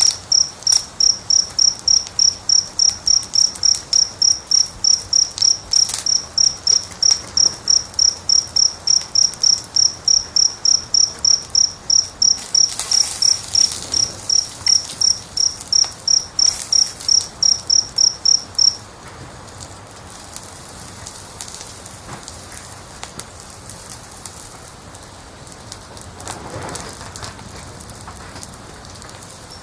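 A cricket chirping in an even pulse, about three chirps a second, which stops about two-thirds of the way through, over the soft crackling and occasional pops of a wood fire.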